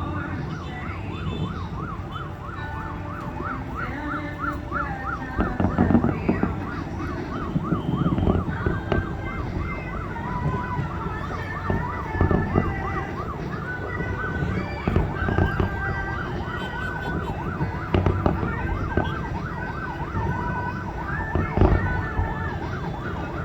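A siren yelping, its pitch sweeping rapidly up and down about three times a second, then settling into steadier high notes about halfway through. Low firework bursts thump underneath several times.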